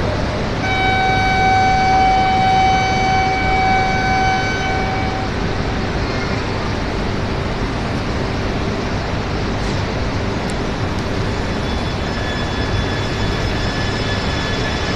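E5 series Shinkansen train running at the platform, a steady loud rumble. A steady pitched tone is held for about four seconds near the start, and a higher steady whine comes in near the end.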